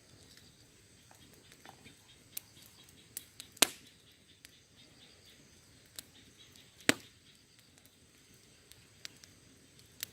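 Wood campfire crackling: irregular sharp pops and snaps over a low hiss, with two loud snaps about three and a half and seven seconds in.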